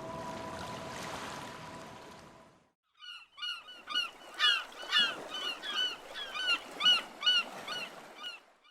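Music fades out over the first few seconds; after a brief silence, a bird gives a run of loud, honking calls, about two a second, until the end.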